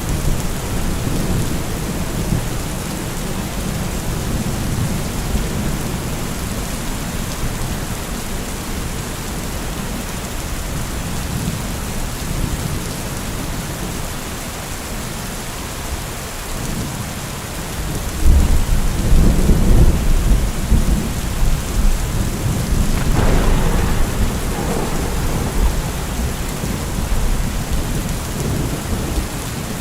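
Steady heavy rain falling, with rolling thunder: a deep rumble swells up a little over halfway through and keeps rumbling for several seconds.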